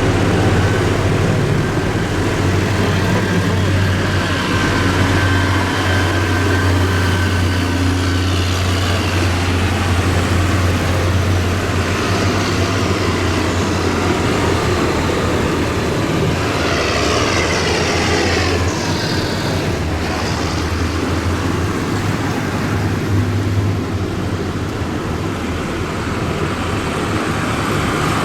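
Tractor engines running as a procession drives past, a steady low engine hum over road noise that is strongest in the first half. A brief burst of higher-pitched noise comes about 17 seconds in.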